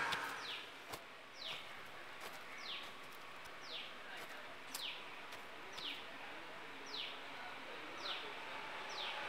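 A bird calling over and over, each call a short note falling in pitch, about once a second, over faint outdoor background. A motorbike fades away at the start.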